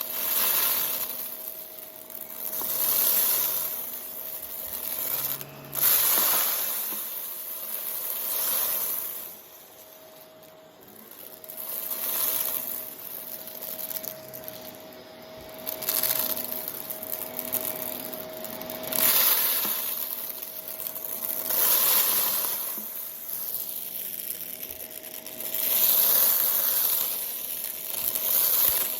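Vacuum cleaner running with a steady motor whine, pushed back and forth over a rug so that the suction noise swells and fades about every two to three seconds.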